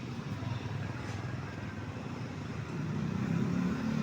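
Small motorcycle engine running, rising in pitch and level about three seconds in.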